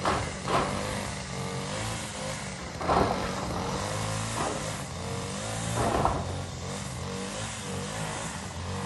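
An engine running steadily, with its pitch shifting slightly, and three sharp knocks about three seconds apart.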